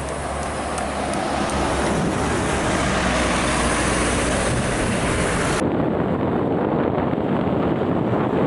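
Heavy road traffic with a bus's engine and tyre noise passing close by, mixed with wind buffeting the microphone. About five and a half seconds in the sound abruptly turns duller as the high hiss cuts out.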